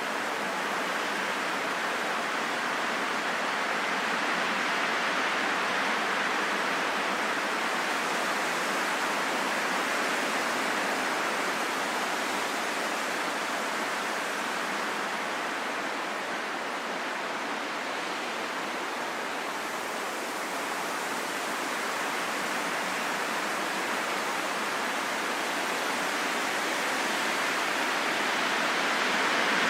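Calm wind rushing steadily, an even noise with no whistling tones, slowly swelling and easing and rising a little near the end.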